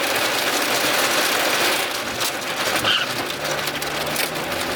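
Rain striking a car's roof and windshield: a dense, steady hiss with fast ticks.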